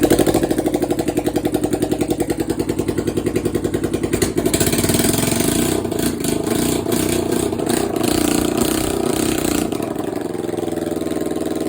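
Motorcycle engine running on choke just after its first start, fed from a makeshift gas tank to the carburettors. It beats with an uneven, pulsing rhythm for the first few seconds, then runs smoother and faster from about four seconds in.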